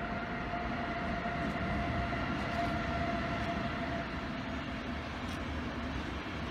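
Intercity train hauled by a DB class 101 electric locomotive rolling past with a steady rumble of wheels on the rails. A steady whine fades out about four seconds in as the locomotive moves away, leaving the rolling noise of the coaches.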